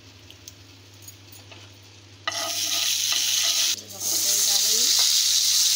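Boiled chana dal bhakosa pieces dropped into hot oil in a nonstick kadhai, starting to sizzle loudly a little over two seconds in and frying steadily after a brief dip. Before that, only a few faint ticks from the oil.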